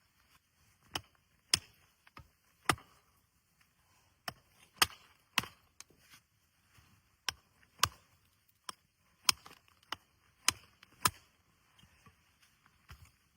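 Repeated sharp chopping blows, about one a second at uneven spacing, each short and dry.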